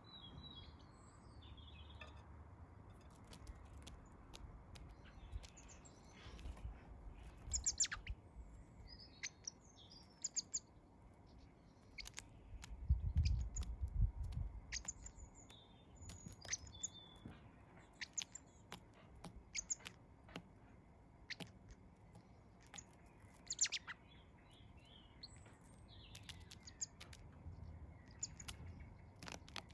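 Small garden birds chirping: many short, high chirps coming thick and fast, mixed with sharp clicks. A low rumble comes in briefly about halfway through.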